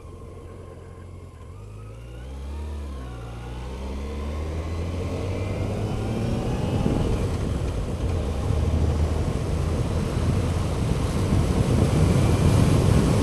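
Motorcycle engine accelerating, its pitch rising as it pulls, with wind and road noise growing steadily louder as speed builds.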